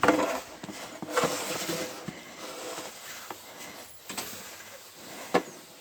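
Snow crunching and scraping in a few short bursts, the loudest near the start and from about one to two seconds in, with a couple of sharp clicks later.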